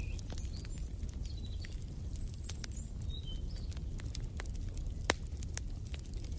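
Wood fire in a fireplace crackling, with frequent small pops over a low steady rumble and one louder pop about five seconds in. Short high bird chirps come in the first half.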